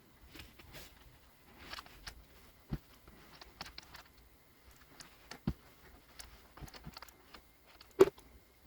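Scattered small clicks and knocks of objects being handled on a work surface, with one louder knock near the end.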